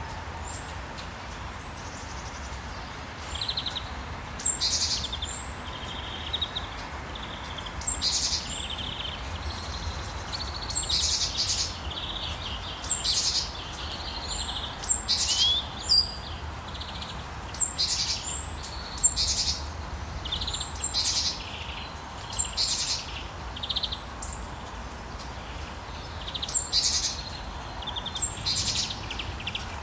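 Rainforest birds calling over and over, short high chirps and quick whistled sweeps coming every second or two, over a steady hiss of rain.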